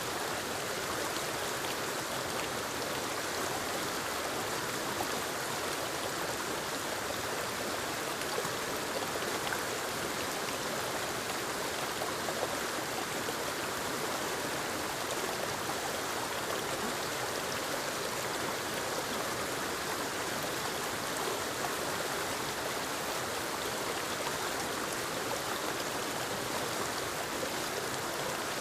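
Forest waterfall and creek rushing over rocks: a steady, even rush of falling and flowing water.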